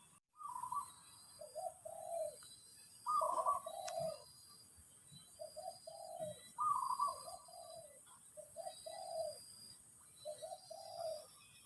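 A dove cooing repeatedly in short phrases, each a higher trilled note followed by lower coos. A faint, high, steady pulsing drone runs underneath.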